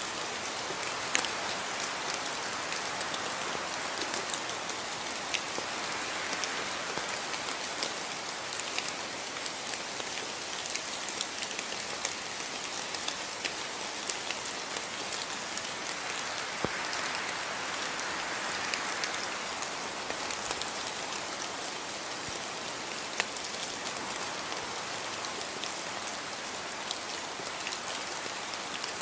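Steady rain: an even hiss of falling rain with many distinct drop impacts ticking through it at irregular moments.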